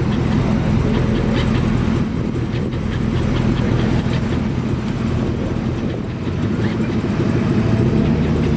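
Mid-1960s Dodge Coronet hardtop's engine running with a low, steady exhaust rumble as the car rolls slowly past.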